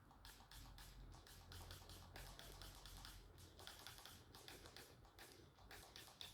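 Faint steady low hum of a KDK industrial ceiling fan's motor, with many small irregular clicks over it.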